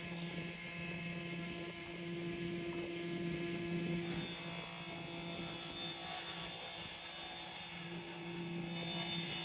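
A steady low hum with an even noisy hiss over it, brighter in the highs from about four seconds in.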